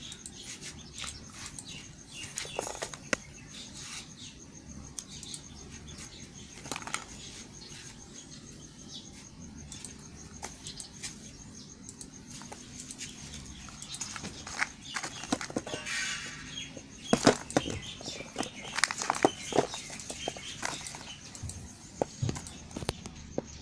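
Close-miked handling of bars of soap and their wrappers: irregular rustling with sharp clicks and scrapes, growing busier and louder in the second half.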